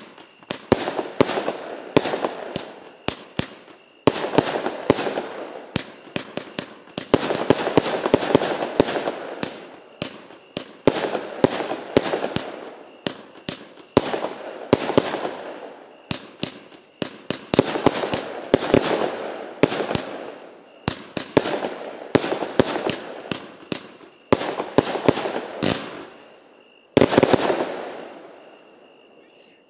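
Lesli 'Inglourious Duo' firework cake, a 25 and 30 mm calibre compound, firing rapid volleys of shots and bursts in wave after wave. A last strong volley comes about 27 seconds in, then the firing dies away.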